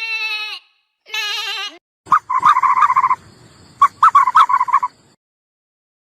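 Animal calls: two short calls with a wavering pitch, then two rapid rattling calls of about a second each.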